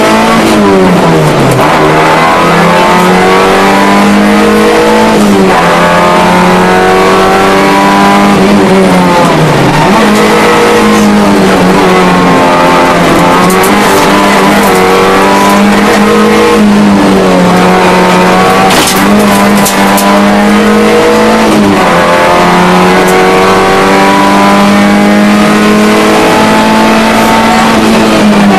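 Rally car's engine running hard at high revs, heard from inside the cabin, its pitch dipping briefly and climbing back again several times. A few sharp clicks come about two-thirds of the way through.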